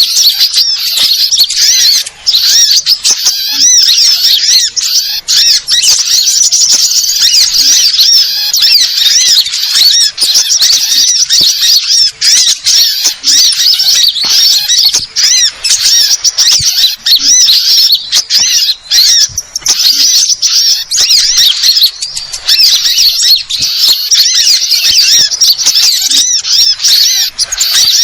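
A dense chorus of many small birds, sunbirds among them, twittering and chirping at once in a continuous, high-pitched, rapid jumble of calls.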